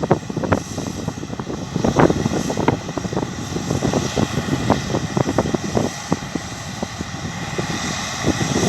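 Wind buffeting the microphone in irregular gusts, over the steady running of a Massey Ferguson Cerea combine harvester working at a distance.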